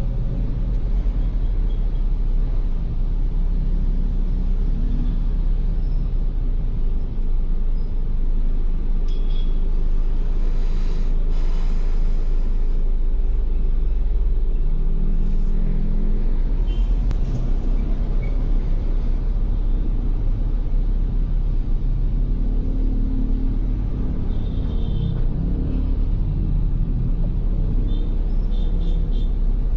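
Ford Everest SUV driving on a wet road, a steady low rumble of engine and tyres. About ten seconds in, a rushing hiss rises and fades over a couple of seconds.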